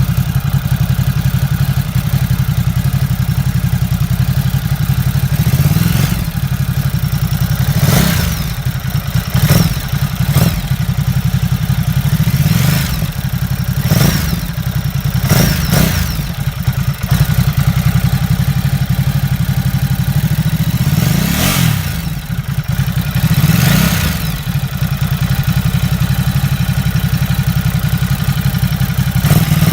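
Ducati Supersport's L-twin engine idling steadily, with about ten short throttle blips that rise and fall quickly. The owner is unsure whether the engine's noise is normal.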